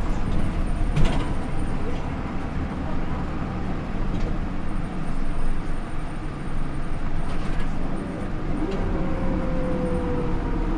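Inside a Hino Rainbow II city bus on the move, its Isuzu 4HK1-TCH turbo-diesel and Aisin automatic transmission running with steady road noise. There is a sharp click about a second in, and near the end a pair of whining tones falls slowly in pitch.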